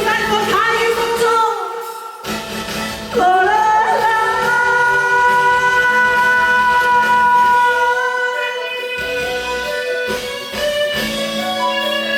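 Pop song with backing music and a singer's voice. The voice slides up about three seconds in and holds one long note for about five seconds.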